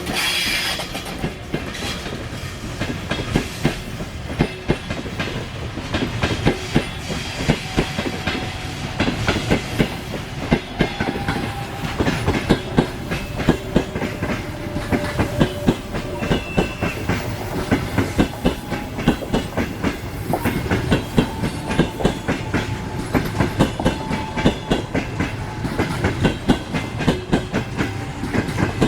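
Passenger train rolling past, its wheels clacking over the rail joints in a continuous run of sharp clicks, with thin whining tones from the wheels now and then.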